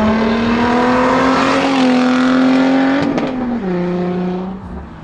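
Ford Mustang accelerating away, its engine note held and slowly rising for about three seconds; a gear change about three seconds in drops the pitch, and the sound fades near the end as the car pulls away.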